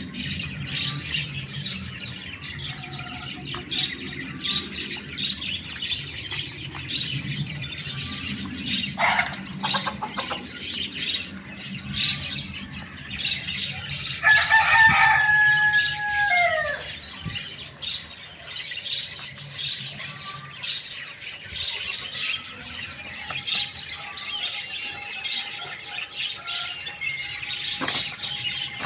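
A rooster crows once about halfway through: one loud, held call that bends down in pitch at the end. Throughout, small birds chirp continuously.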